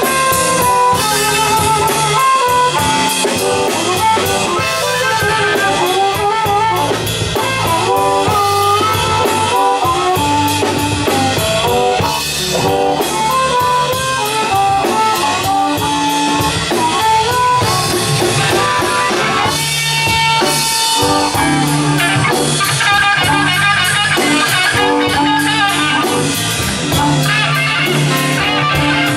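Live blues band playing an instrumental passage: a lead guitar line of bending single notes over bass and a drum kit.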